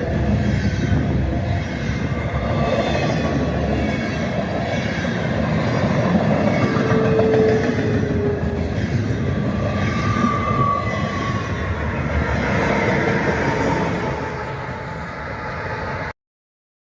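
CSX freight train's cars rolling past, with brief thin wheel squeals about seven and ten seconds in. The sound cuts off abruptly near the end.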